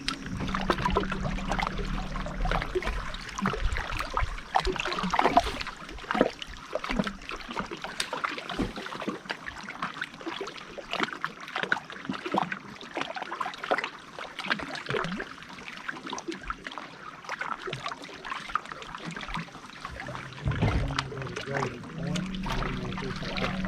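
Water trickling and splashing around a fishing boat, with many small clicks and knocks. A low steady hum is heard for the first couple of seconds and comes back near the end.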